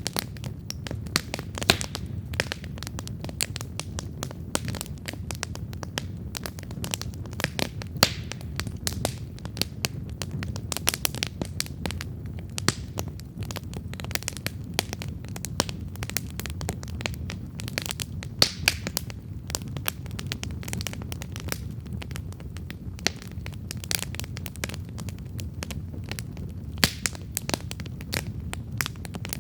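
Wood campfire burning and crackling, with frequent irregular sharp pops and snaps over a steady low rumble of the flames.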